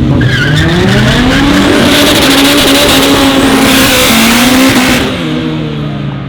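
Supercharged Honda S2000 four-cylinder engine revving hard under acceleration, climbing in pitch and holding high revs. The revs fall away about five seconds in as the throttle is lifted.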